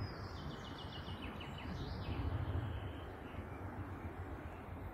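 Steady rushing outdoor background noise, with a small bird singing a rapid trill of quickly repeated high notes for about a second and a half near the start.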